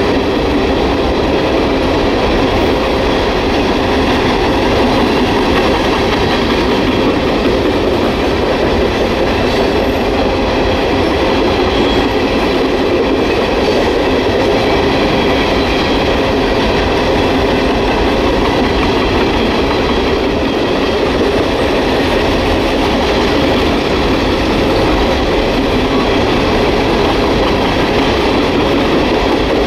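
Freight train of Norfolk Southern hopper cars rolling past at steady speed: a continuous loud rumble of steel wheels on the rails, with no breaks or changes.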